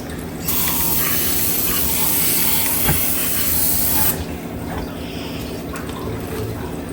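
Aerosol spray can sprayed in one continuous hissing burst that starts about half a second in and stops abruptly after about three and a half seconds.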